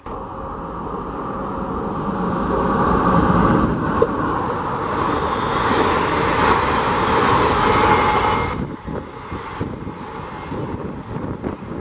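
WAP-4 electric locomotive and its passenger coaches passing at full speed: a rushing noise that builds as the train approaches and goes by, then, after about eight and a half seconds, quieter rapid knocking of coach wheels over the rail joints as the last carriages run past.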